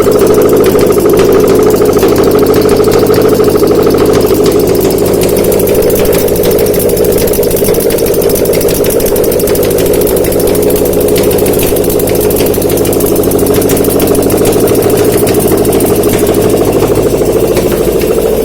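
Subaru EJ203 2.0-litre flat-four engine idling steadily on a test stand, easing slightly in level about four seconds in.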